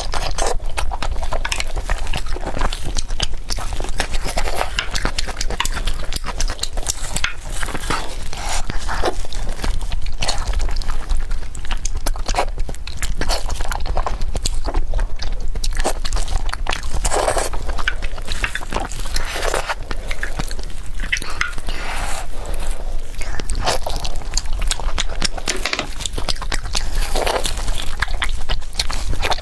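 Close-miked chewing and biting of a big chunk of braised pork belly, an irregular run of many small mouth clicks.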